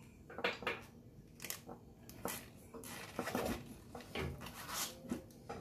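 Hand tools and metal parts clinking and scraping in short, irregular bursts, typical of working on a motorcycle wheel.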